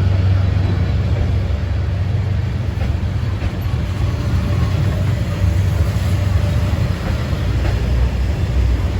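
D19E diesel-electric locomotive standing in the station with its diesel engine running, a steady low rumble.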